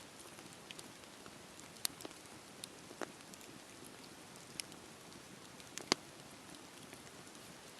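Campfire burning: a soft steady hiss of the fire with scattered sharp crackles and pops, a close double pop about six seconds in the loudest.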